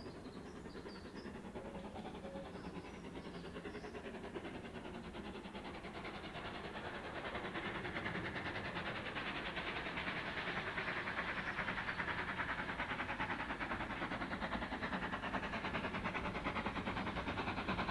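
A railway train approaching and running past, its rapid rhythmic running noise building from about seven seconds in and at its loudest near the end.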